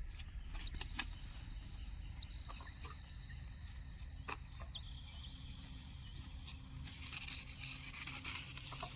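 Outdoor ambience: a steady low rumble with short high chirps and scattered clicks, growing a little busier near the end.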